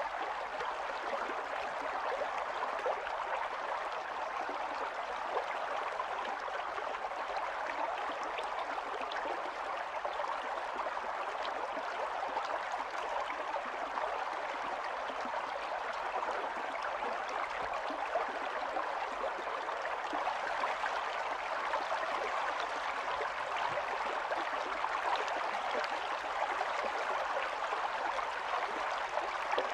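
Stream of running water, flowing and gurgling steadily over stones, with an even rush and many small splashes.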